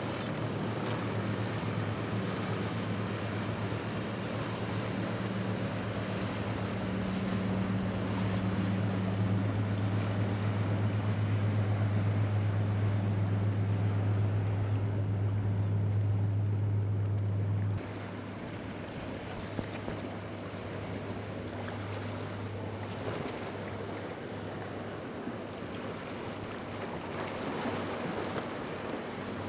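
A boat's engine drones as a low steady hum, growing louder, over wind and surf noise. About 18 seconds in the drone drops off suddenly, leaving the rush of waves and wind.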